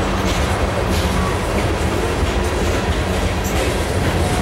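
Loaded limestone hopper cars rolling past: the steady rumble of steel wheels on rail, with occasional clicks from the wheels. A faint thin squeal starts near the end.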